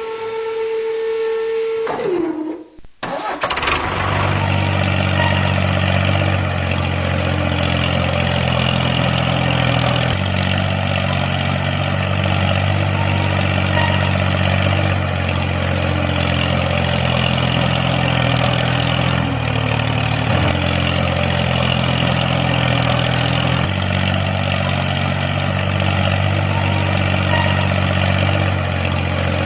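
A steady pitched whine slides down in pitch and stops about two seconds in. About a second later an engine starts and runs at a steady idle.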